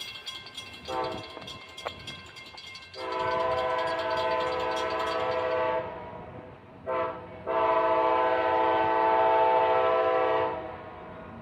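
Amtrak locomotive air horn sounding a short blast, a long blast, another short blast and a long blast. A high metallic clatter from the passing train fades out about halfway through.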